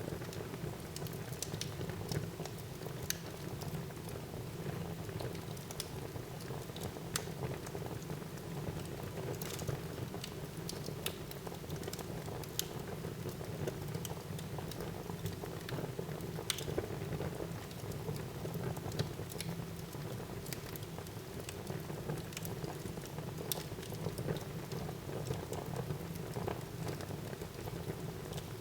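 Wood fire burning in a fireplace: a steady low rush of flame with irregular sharp crackles and pops from the burning wood.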